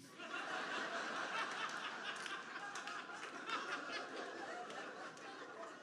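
Audience laughing after a punchline, dying away toward the end.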